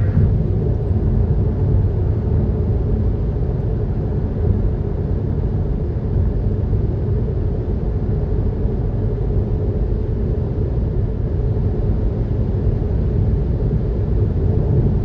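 Steady road and engine rumble inside a moving vehicle's cabin, a low, even noise without breaks.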